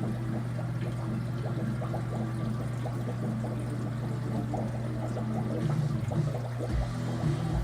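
Aquarium water trickling and bubbling with many small splashes, over a steady low hum.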